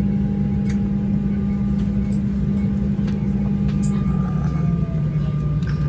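Steady low drone of a vehicle's engine heard from inside, with a shift in its tone about four seconds in.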